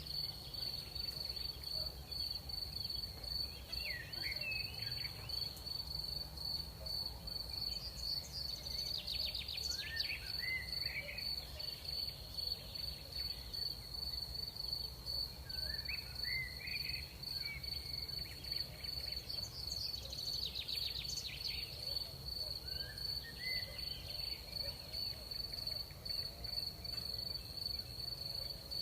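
Crickets chirring in one unbroken high trill over a low steady hum of night air. Short rising chirps from some other animal break in about every six seconds.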